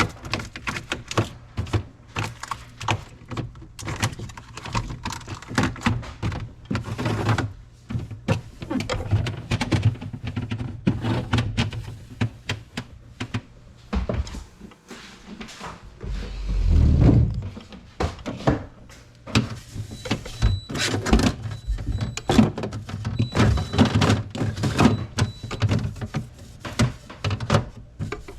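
Irregular knocks and clatter of containers and refrigerator parts being handled while a fridge is cleaned out, with door thunks. A longer low rumble comes about halfway through.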